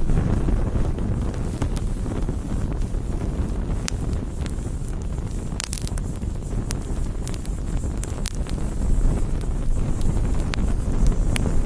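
Campfire burning, with irregular sharp crackles and pops from the wood over a steady low rumble. A brighter cluster of pops comes about six seconds in.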